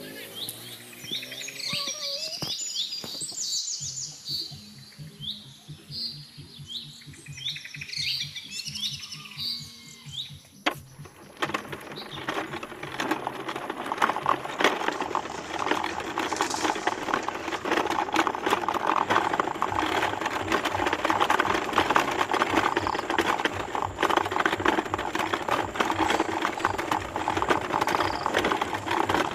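Birds chirping in repeated short calls. About eleven seconds in, the calls give way to a louder, dense, steady noise full of fine clicks that carries on to the end.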